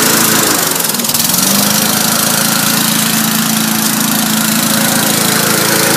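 Small lawn mower engine running steadily, its speed picking up slightly about a second in.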